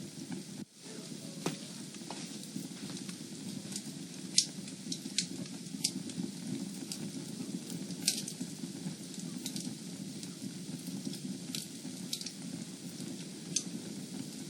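Fire burning in a fireplace: a steady low rush of flames with sharp crackles and pops of burning wood scattered irregularly, a few of them louder. The sound drops out briefly less than a second in.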